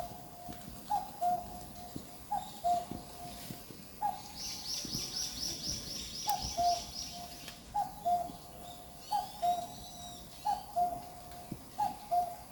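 Forest birdsong. One bird repeats a low two-note call about every second and a half, a short higher note followed by a longer lower one. Another bird gives a fast, high trill about four seconds in, and a few high chirps come near the end.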